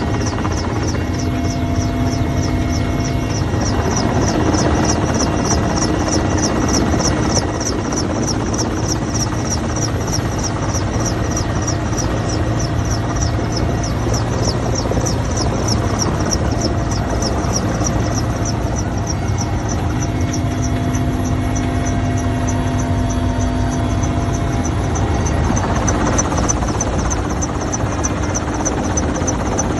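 Helicopter running steadily overhead, its rotor giving an even, rapid beat over a constant low rumble.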